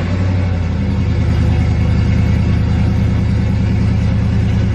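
Lowered Chevy truck's engine idling steadily, loud and low with an even rhythmic pulse, moments after being started.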